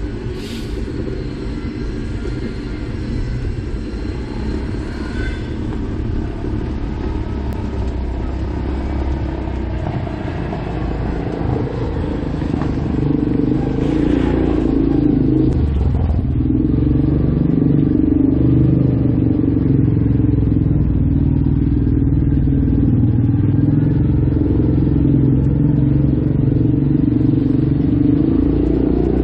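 Road noise from riding along a street: a low rumble of wind on the microphone mixed with a motor vehicle's engine running. It grows louder about halfway through.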